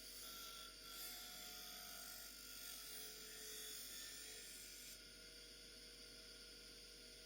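Faint whine and hiss of a bench grinder spinning an MDF sharpening wheel, a little brighter for about the first five seconds, then settling lower.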